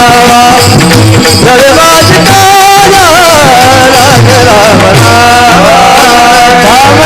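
Marathi kirtan music: a sung devotional melody with wavering, ornamented held notes over steady sustained accompaniment.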